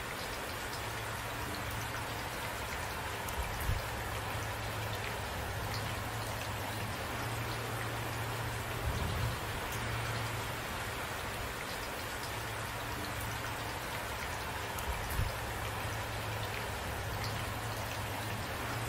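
Steady rain falling and pattering on a surface, with a few brief louder low thuds about 4, 9 and 15 seconds in.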